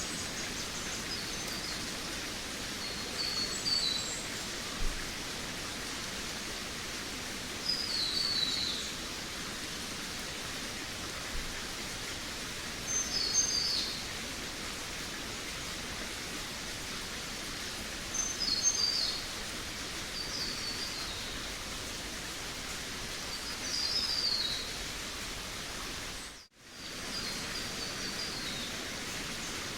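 Forest birds singing short, high twittering phrases that fall in pitch, one about every four or five seconds, over a steady rushing background hiss. Near the end the whole sound drops out for a moment.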